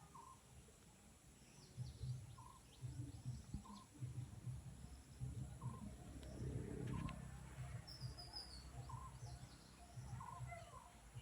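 Wild birds calling and chirping. A short low call repeats every second or two, with a few higher chirps, over a low rumble and a faint steady high whine.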